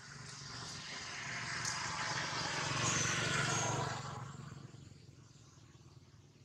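A motor vehicle passing by: a low engine hum and road noise build up, peak about three to four seconds in, then fade away.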